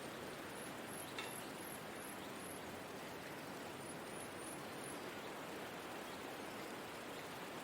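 Forest ambience soundscape: a steady soft hiss, with a run of about six very high, short chirps about a second in and four more around the middle. A small tick sounds just after the first chirps begin.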